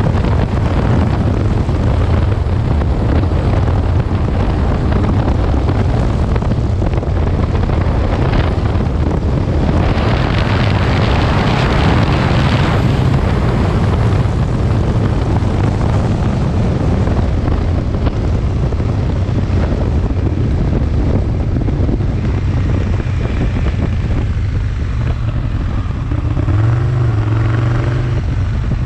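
Aprilia Tuono 1000's V-twin engine running steadily under way, with wind rushing over the microphone. About ten seconds in, a louder rush of wind noise lasts for a few seconds.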